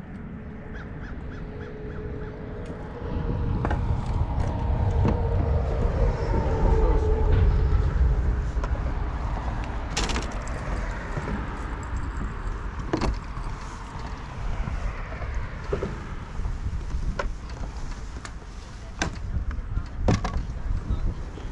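Handling noise: sharp clicks and knocks of gear being worked in a kayak, over a low rumble that swells for several seconds early on.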